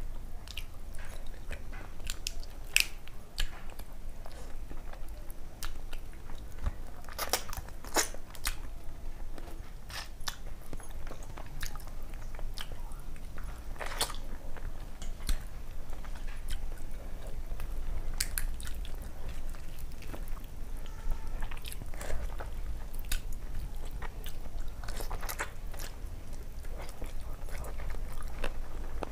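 Close-miked chewing and mouth sounds of a person eating rice and katla fish curry by hand: wet smacks and sharp clicks at irregular intervals, over a steady low hum.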